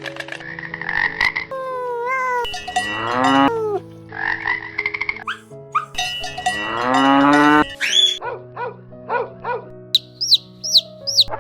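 Cattle mooing: several long calls that rise in pitch, over steady held ringing tones. Short repeated calls and high rising chirps come in near the end.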